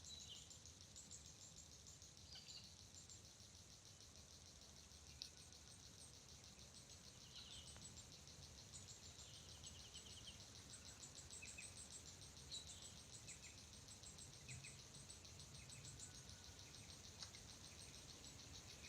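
Faint outdoor ambience: a steady chorus of insects, a high fine-pulsed trill that never stops, with scattered short bird chirps throughout.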